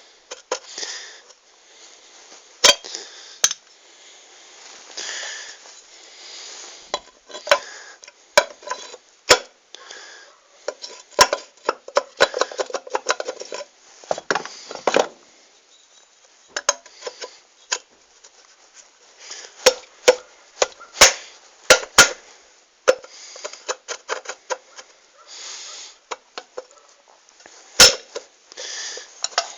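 Irregular metallic clinks and knocks with rustling in between, as of metal motorcycle parts being handled; a few of the knocks are sharp and loud.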